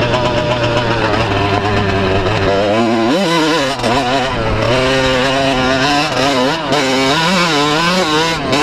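125 cc two-stroke motocross bike engine being ridden hard. Its pitch climbs and drops again and again as the throttle is worked, with a sharp rise about three seconds in.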